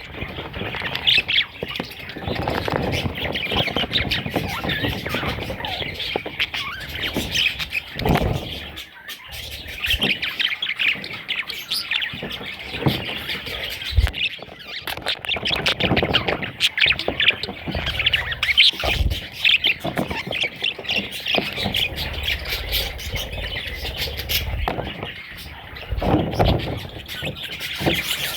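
Budgerigar chicks calling continuously in a dense, high chatter, with a few short low knocks.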